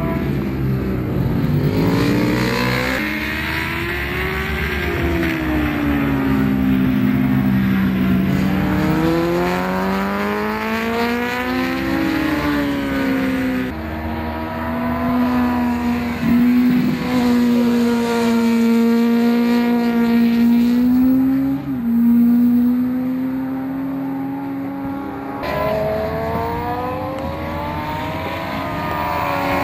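1000 cc superbike engine at racing speed, its pitch climbing and dropping again and again as it runs up and down through the gears. Through the middle it holds a steady high note for several seconds before dropping away and climbing once more near the end.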